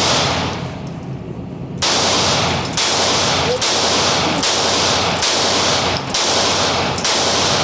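Pistol firing a string of about seven shots, roughly a second apart, starting about two seconds in. Each shot has a long echoing tail. The pistol is a 9mm.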